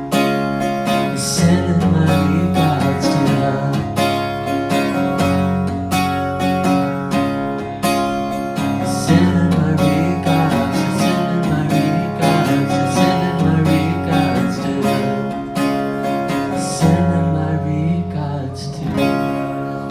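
Live band playing an instrumental passage led by strummed acoustic guitar over a steady bass line.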